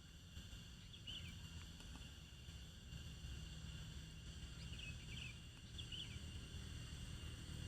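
Outdoor ambience: a steady low rumble with a few short, faint high chirps, about a second in and again around five to six seconds in.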